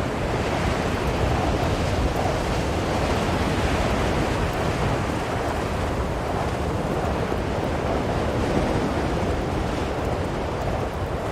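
Blizzard wind blowing steadily, a dense rushing noise that swells and eases slowly without breaking off.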